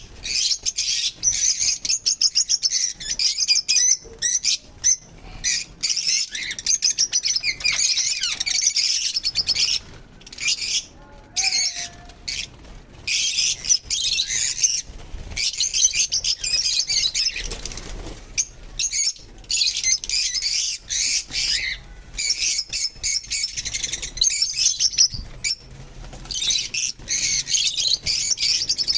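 A flock of pet lovebirds and cockatiels chattering in dense, rapid high-pitched chirps, with a few brief lulls.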